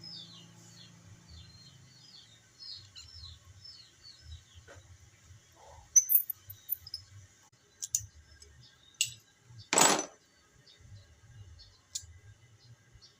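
Scattered sharp metallic clicks and knocks of hand tools and fittings being worked on copper refrigerant tubing, with one louder, longer burst of noise about ten seconds in. Small birds chirp in quick repeated notes during the first few seconds.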